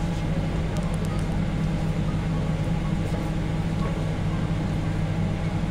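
Steady low hum inside a passenger train carriage, a stack of constant low tones over an even background noise, with the train standing or barely moving and no wheel clatter.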